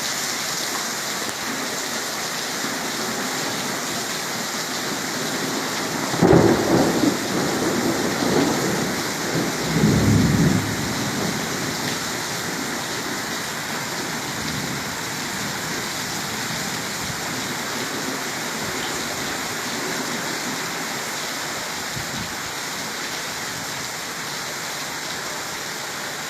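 Steady heavy rain during a thunderstorm, with a rolling rumble of thunder about six seconds in that swells twice and dies away after some four seconds.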